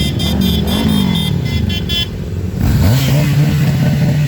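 Motorcycle engines revving in a passing parade, their pitch rising and falling, with one bike revving up about halfway through and holding. A rapid high-pitched beeping runs through the first half.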